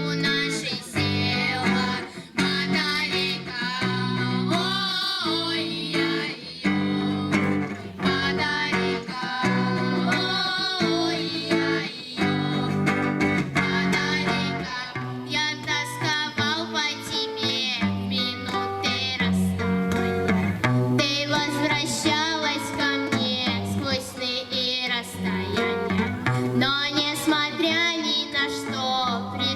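Girls' vocal-instrumental ensemble performing a song live: singing voices over guitar accompaniment with a steady low bass part.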